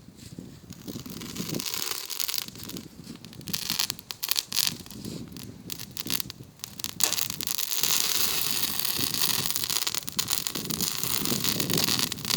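Campfire crackling with many sharp pops, under a hiss that grows louder and steadier about seven seconds in.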